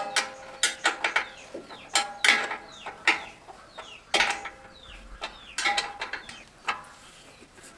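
Irregular metal knocks and clanks of hand tools working on a rice milling machine's parts, some strikes ringing briefly.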